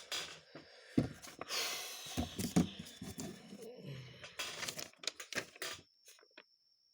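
Hands handling small carburetor linkage parts: irregular crinkling and rustling with small clicks and knocks, the sharpest knock about a second in, stopping about six seconds in.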